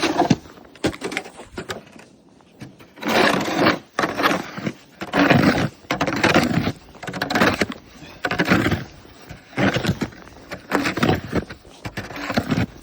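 Snow shovel scraping and pushing through heavy snow in a steady rhythm of strokes, about one a second, beginning around three seconds in.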